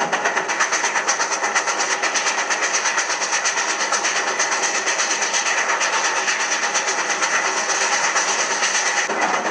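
Recorded steam train running at speed: a steady, rapid rhythmic beat, about five a second, over a continuous hiss and rumble.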